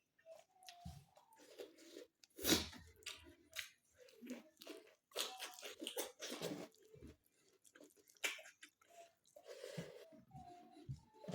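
A person chewing and crunching food with the mouth, in irregular bursts of crisp bites and wet chewing; the loudest crunch comes about two and a half seconds in.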